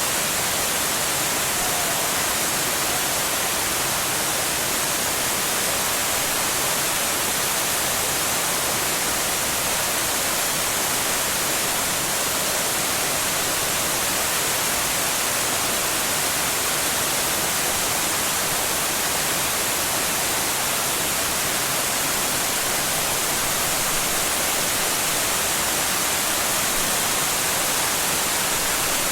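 Waterfall: a steady, unbroken rush of falling water, with a bright, hissing upper range.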